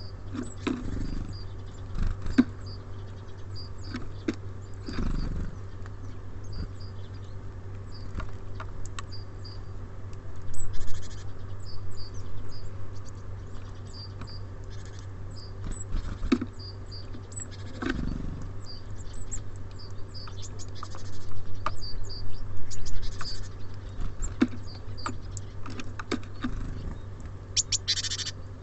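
Small songbirds at a feeder: short high chirps and calls repeated throughout, with sharp taps and scratches from birds landing and pecking on the wooden feeder. A steady low hum runs underneath.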